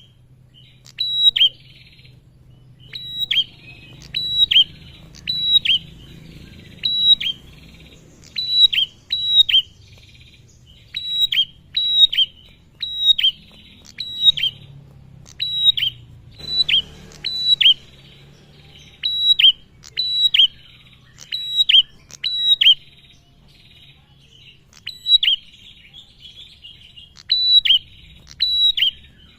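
Male prenjak (a prinia) calling over and over: sharp, high chip notes that drop quickly in pitch, mostly in quick pairs or short clusters about once a second.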